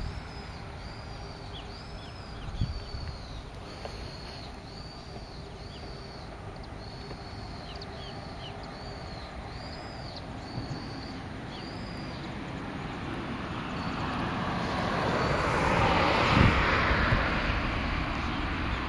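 A bird calling over and over with a short, high, arched note roughly every three-quarters of a second for about the first twelve seconds. Then a rushing noise swells, loudest about sixteen seconds in, and slowly eases off.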